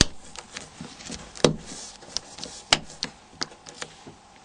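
Plastic covers of a Nokia N93i flip assembly being handled and pressed together. They give sharp clicks and taps: three louder knocks and several lighter ticks in between.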